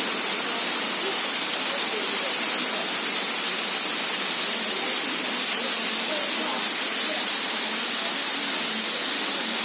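Steady rushing roar of a large waterfall's falling water, even and unbroken.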